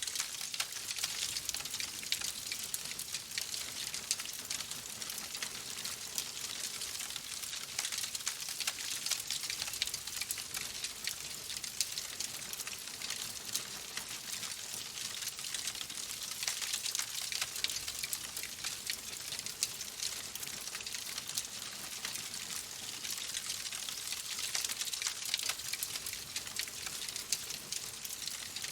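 Fireplace fire crackling steadily: a constant hiss dotted with many small pops and snaps.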